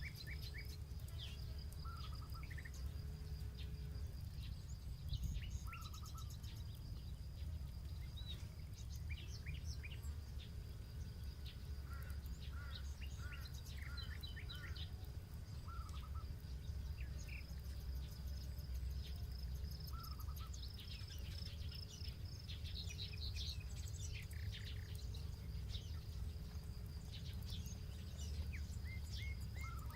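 Birds chirping in many short calls over a steady high insect trill, with the faint crackle of a campfire and a constant low rumble underneath.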